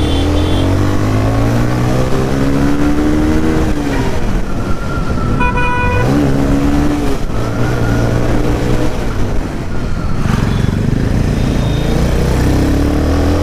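Single-cylinder Bajaj Pulsar 180F motorcycle engine with an aftermarket Akrapovic slip-on exhaust, accelerating through the gears. Its pitch climbs, drops around four seconds in at a gear change, then climbs again. A vehicle horn beeps briefly about five and a half seconds in.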